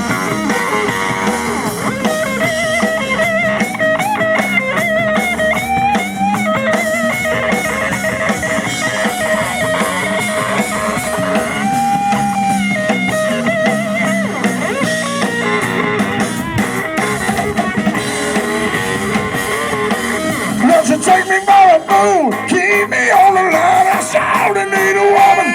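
Live blues-rock band playing an instrumental passage, with an electric guitar lead over bass and drums; it gets louder near the end.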